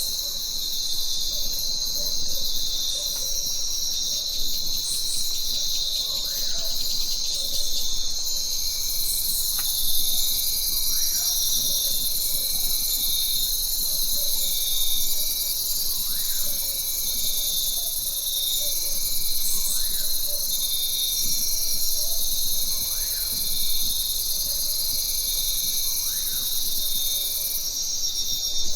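A dense chorus of forest insects buzzing and trilling steadily at a high pitch, with a short repeated chirp about every second and a half.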